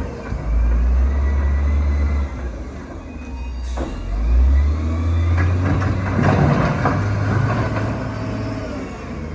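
Heavy diesel earthmoving machine running, its low engine note rising and falling with load, with a stretch of rough clattering and scraping a little past the middle.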